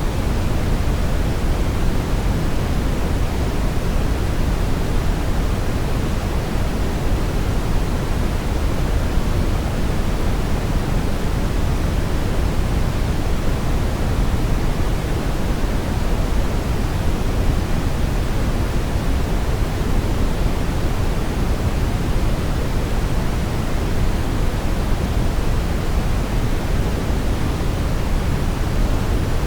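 Steady brown noise: an even, unbroken hiss weighted heavily to the low end, with no tones, rhythm or events.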